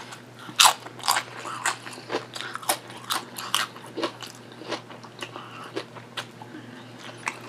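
Close-miked chewing of crunchy potato chips: a run of crisp crunches about twice a second, the loudest about half a second in.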